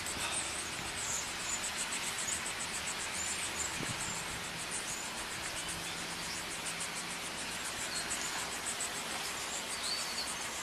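Insects chirping in an even, rapidly pulsed high trill over a steady background hiss.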